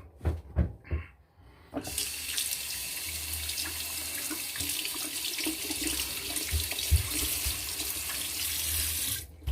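Bathroom sink tap running into the basin, turned on about two seconds in and shut off just before the end, after a few light knocks.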